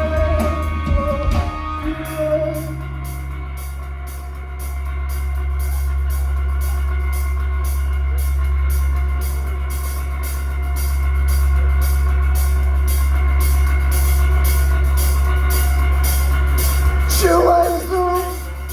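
Live rock band playing: a loud, sustained low bass drone under a fast, steady drum beat, with a brief vocal shout near the end.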